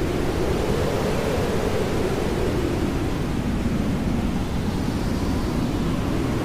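Hair dryer running steadily: a constant low rushing noise with no breaks, used as white noise.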